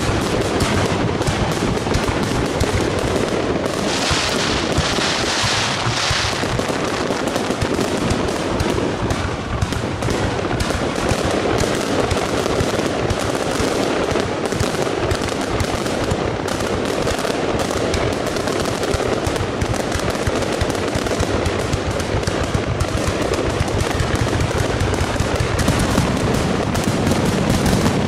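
Aerial fireworks display: a continuous barrage of shell bursts and crackling reports in rapid succession, with a stretch of hissing crackle about four to six seconds in.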